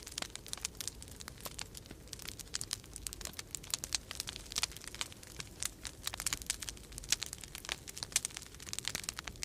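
Wood fire crackling in a fireplace: dense, irregular sharp pops and snaps over a low steady rumble of wind.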